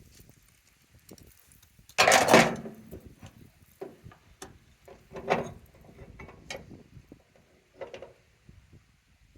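Cooking gear being handled at a camp stove: a loud clatter about two seconds in, then several softer knocks and clicks.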